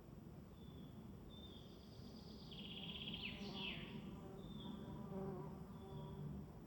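Woodland birdsong: short high whistled notes repeated about once a second, with a rapid trill and quick sweeping notes a few seconds in. A flying insect buzzes close by through the middle.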